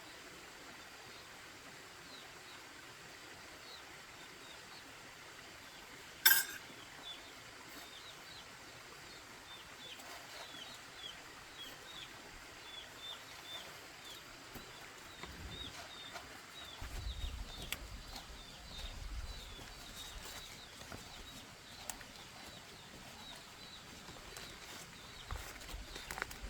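Repeated short, high bird chirps, fitting chicks or chickens, over faint outdoor background. About six seconds in comes a single sharp knock, the loudest sound. Low rumbling follows in the latter part.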